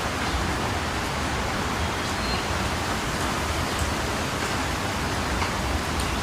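Steady, even rain, with faint scattered drop ticks.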